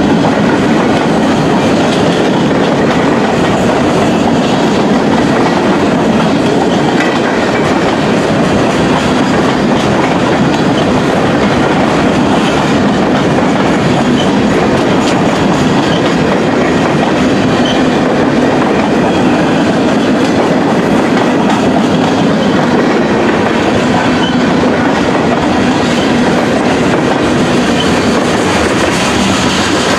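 Freight train cars rolling past at close range, their steel wheels clicking steadily over the rail joints in a continuous loud rumble.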